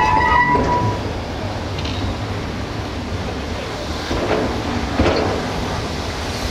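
Railway train running on the rails: a steady low rumble with a brief high-pitched metallic squeal in the first second, and two short knocks about four and five seconds in.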